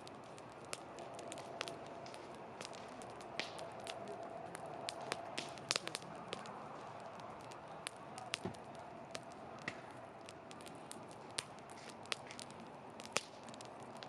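Wood fire crackling: a steady hiss of flame under irregular sharp pops and snaps, with the loudest snaps about six and thirteen seconds in.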